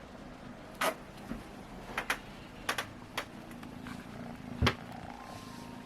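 Black kitten purring close by, with scattered light clicks and taps and one louder low thump about two-thirds of the way through.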